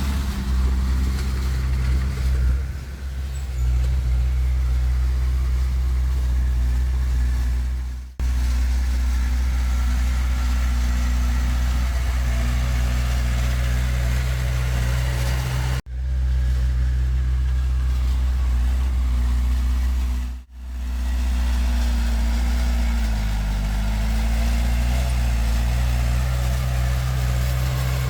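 Heavy diesel earthmoving engine running steadily with a low hum. Its pitch sags and recovers once late on, as if under load. The sound cuts out briefly three times.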